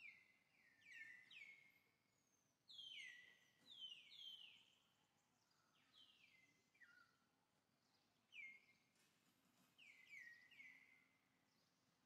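Faint bird chirps: a string of short, high calls, each sliding quickly down in pitch and trailing off, coming in loose clusters.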